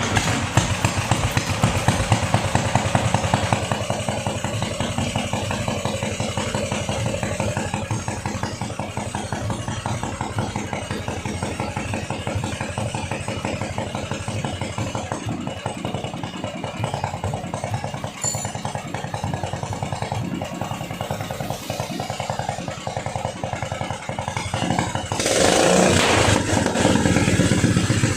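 Ketinting longtail boat engine running with rapid, even firing pulses, getting louder near the end.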